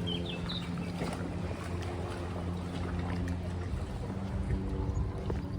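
An engine running steadily with a low hum; its pitch shifts slightly about four seconds in.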